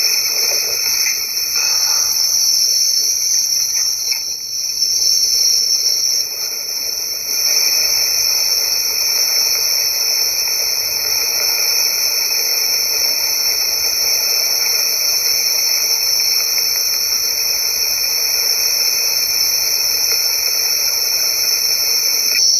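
A dense, steady chorus of insects buzzing in two high bands. It dips briefly about four to seven seconds in, then carries on.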